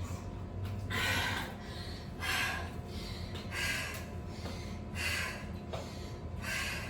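A woman breathing hard from exertion between exercise sets, five heavy breaths about one every second and a half.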